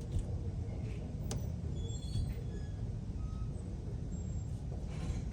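Steady low rumble of idling diesel trucks, with a few faint ticks over it.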